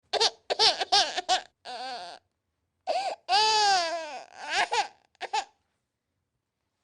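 Baby crying in short, high-pitched sobbing cries, with one longer wail about three seconds in that falls in pitch as it ends.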